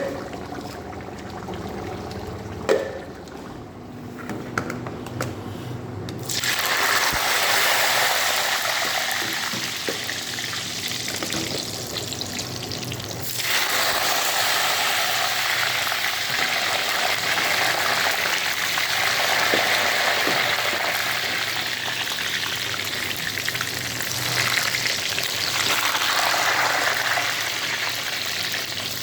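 Steady sizzling hiss of food frying in hot oil and ghee in a cooking pot. It starts about six seconds in after a few light clicks and knocks, and grows louder again about halfway through.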